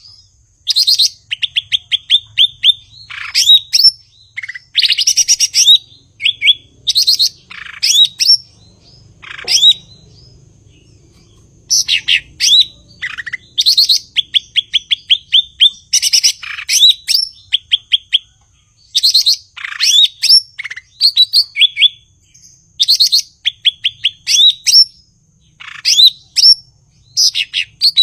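Cucak ijo (green leafbird) in full, energetic song: loud, rapid phrases of sharp chips, quick trills and rising whistles, one after another, with a pause of about two seconds near the middle.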